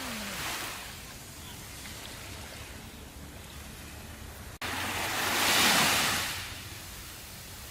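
Ocean surf washing ashore, a steady hiss of breaking waves. A little past halfway the sound drops out for an instant, then one larger wave surges in, peaks and fades over about two seconds.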